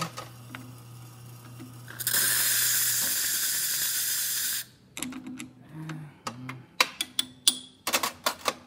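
Steam hissing hard from the Rocket R58 espresso machine's steam wand for about two and a half seconds, then cut off sharply; the burst vents much of the steam boiler's pressure. A low steady hum runs before it, and a string of sharp clicks and clinks of cup and metal follows.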